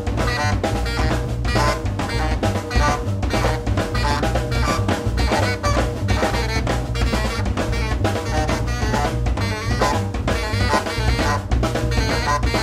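Free-improvised jazz trio playing live: a drum kit played densely, with fast, unbroken strokes on snare, rims and bass drum, under saxophone and bass.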